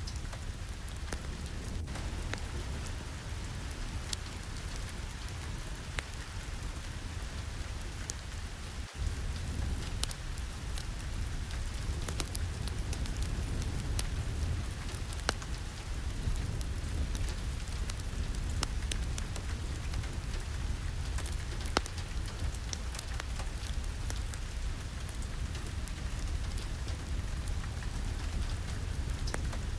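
Steady rain with a constant low rumble and scattered sharp drop ticks. There is a brief dropout about nine seconds in, after which the rain is a little louder.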